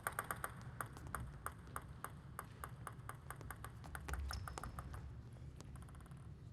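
Celluloid-plastic table tennis ball clicking off the table and rackets in quick succession, about three sharp pings a second, stopping about five seconds in.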